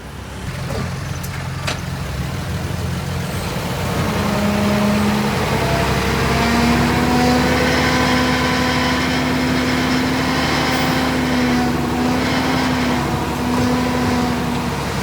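Heavy machine's diesel engine running, rising in pitch about four seconds in and holding at higher revs under load before dropping back near the end.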